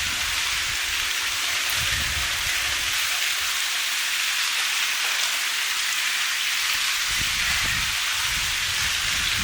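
Steady rain falling, an even hiss of drops, with soft low rumbles coming and going underneath.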